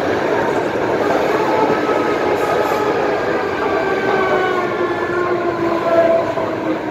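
MTR M-Train electric multiple unit running on the Island Line: a steady rumble of wheels and running gear, with a faint motor whine that slides slowly down in pitch in the second half.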